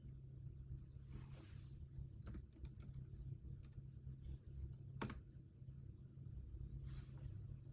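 Scattered keystrokes on a computer keyboard, with one louder key click about five seconds in, over a low steady room hum. Two soft swishing sounds come near the start and near the end.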